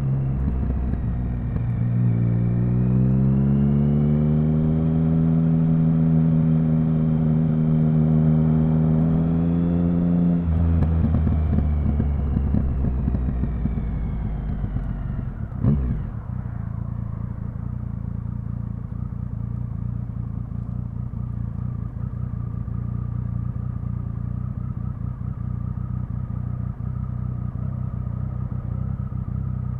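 Triumph Speed Triple 1050's three-cylinder engine on the move: the revs rise about two seconds in and hold steady, then fall away from around ten seconds. A short sharp knock comes about halfway through, after which the engine runs steadily at low revs.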